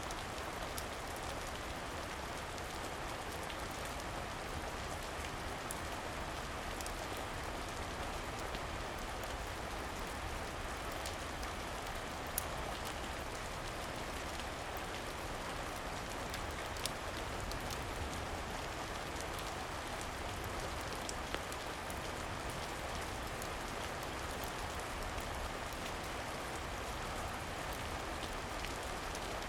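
Steady rain falling, an even hiss, with a few sharp clicks scattered through it.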